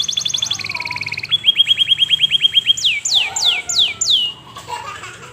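Local canary singing loud, ringing song: fast trills of rapidly repeated high notes that switch to a lower trill at about one second, then to a mid-pitched trill. Four slower downward-sweeping whistles follow, and the song breaks off about four seconds in.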